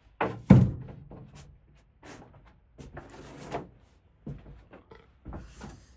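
A series of knocks and clattering handling sounds, the loudest about half a second in, with a brief rustle near the middle.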